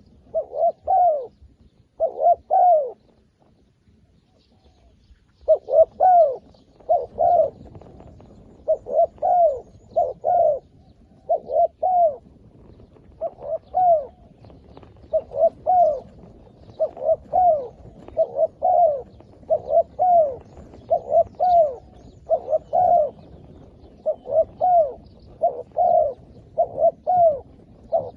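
A decoy dove cooing over and over, short arched coo notes in groups of two or three, with a pause of a few seconds near the start.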